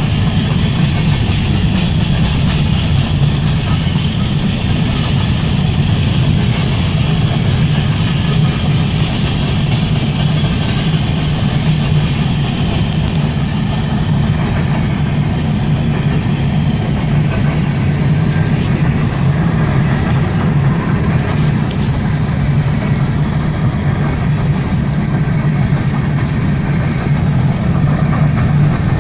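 Freight train cars rolling past, a loud, steady rumble of wheels on rail that holds even throughout.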